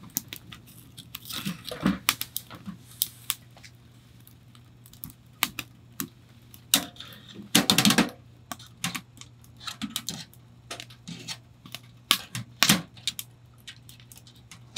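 Irregular clicks, taps and knocks of small objects being handled, with a longer rustling tear about eight seconds in.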